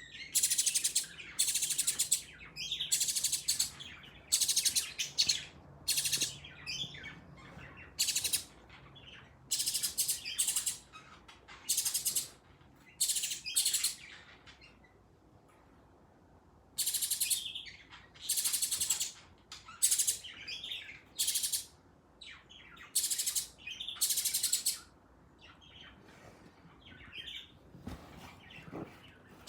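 A bird chirping in many short, high, buzzy bursts, with a lull of a few seconds around the middle and again near the end.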